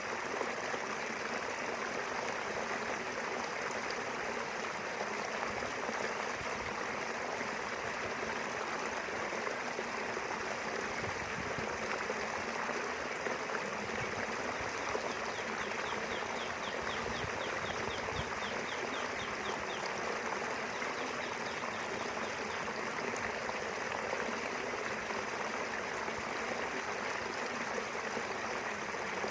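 River water flowing steadily over rocks, an even rushing and trickling. About halfway through, a faint, fast, high trill sounds over it for several seconds.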